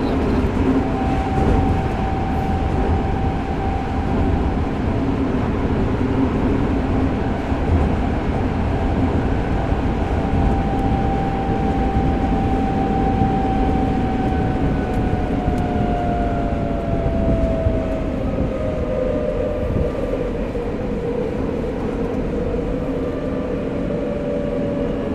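Tokyo Metro 05 series subway car running, recorded on board: a steady rumble of wheels and traction motors with a Mitsubishi IGBT VVVF inverter whine. The whine holds one pitch, then glides down from about halfway through as the train slows for the next station.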